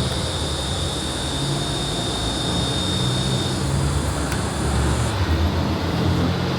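A steady low mechanical drone with a hiss over it and a thin high whine that stops about three and a half seconds in.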